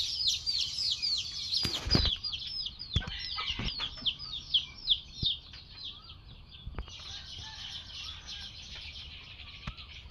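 Birds chirping: a fast series of high, falling chirps, several a second, that thins out about seven seconds in and gives way to a dense high chatter. A few sharp knocks come in the first seven seconds.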